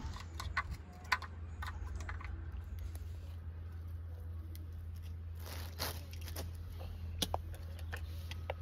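Scattered light clicks, taps and knocks of hands handling food and utensils, over a steady low hum.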